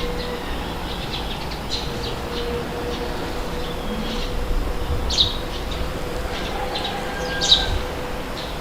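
Wind blowing in a steady low rumble, with birds chirping and calling throughout; two louder calls come about five and seven and a half seconds in. A faint steady hum runs underneath.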